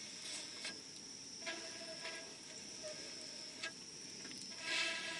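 Wood fire burning, crackling with a few sharp pops and a brief louder hiss near the end.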